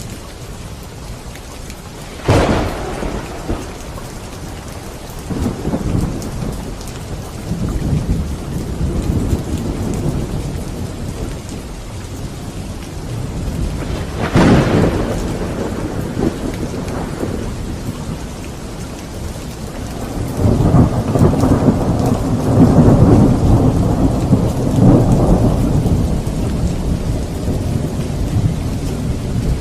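Steady rain falling through a thunderstorm. There is a sharp crack of thunder about two seconds in and another near the middle, then a long rolling rumble of thunder in the last third.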